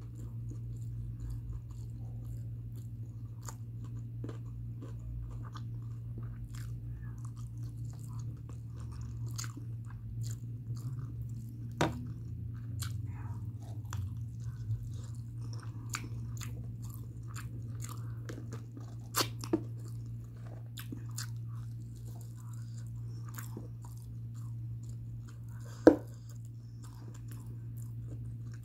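Close-up chewing and biting of mutton biryani, with many small wet mouth clicks and crunches over a steady low hum. A few sharper, louder clicks stand out about halfway through and again near the end.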